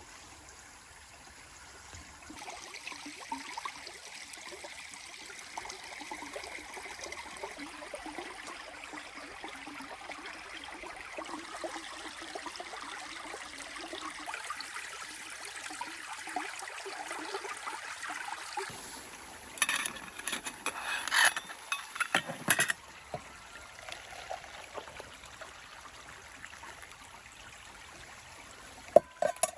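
Water trickling and bubbling in a steady stream. About two-thirds of the way through, a few loud sharp knocks or clatters follow in quick succession, and one more comes near the end.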